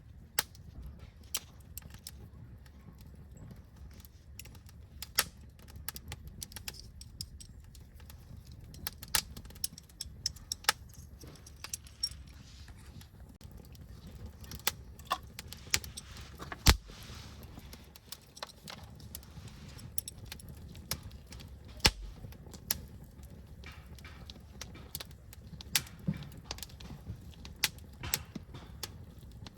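Burning firewood crackling, with irregular sharp pops over a low steady rumble; the loudest pops come about 17 and 22 seconds in.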